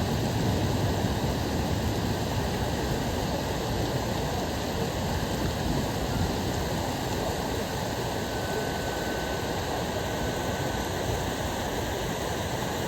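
Heavy rain falling steadily, an even, unbroken rushing hiss.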